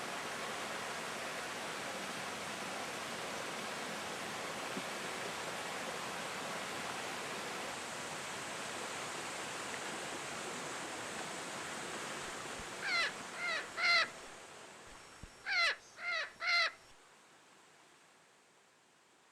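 Steady rushing forest ambience that fades away in the second half, while a bird gives three short calls and, about two seconds later, three more.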